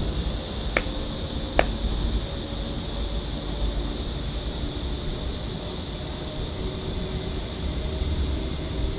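Steady high-pitched insect drone, with wind rumble on the microphone and two sharp knocks, one under a second in and one about a second and a half in.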